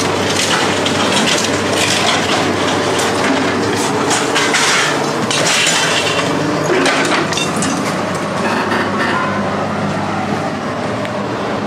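A heavy engine running steadily under repeated metal clattering, crunching and scraping, typical of machinery working scrap metal.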